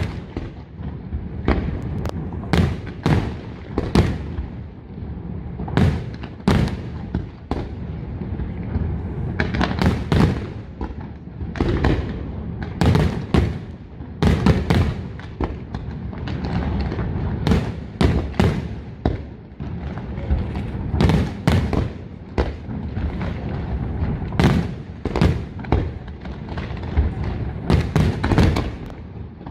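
Aerial fireworks display: a rapid, irregular run of shell bursts, sharp bangs several a second at times, over a continuous low rumble of launches and distant detonations.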